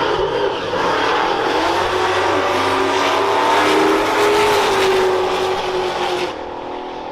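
Drag-racing dirt bike engines running hard at high revs, a loud engine note that holds fairly steady, then drops abruptly about six seconds in.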